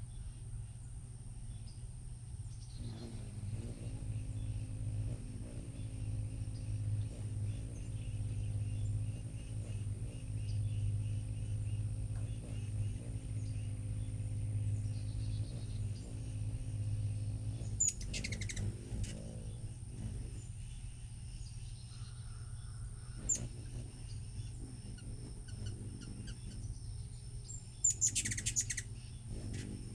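Hummingbirds chirping at a feeder: short, high chirps a few times, clustered around the middle and near the end, over a steady low hum.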